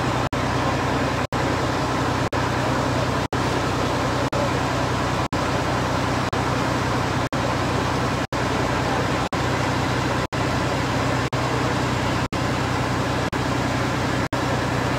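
Steady street and traffic noise with a low hum. It is cut by brief dropouts to silence about once a second, a glitch in the recording.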